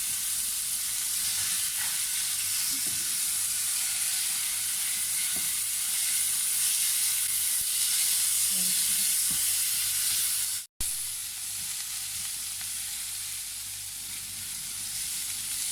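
Chopped onions and garlic sizzling steadily in hot oil in a pan on medium heat, stirred now and then with a few light ticks. The sound drops out for a split second about ten seconds in.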